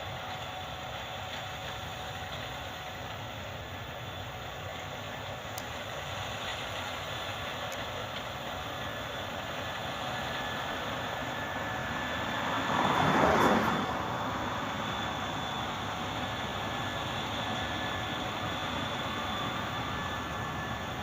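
Combine harvester running steadily while cutting wheat, a continuous mechanical drone with faint steady whining tones that slowly grows louder. About two-thirds of the way through, a louder rushing swell lasts a second or two.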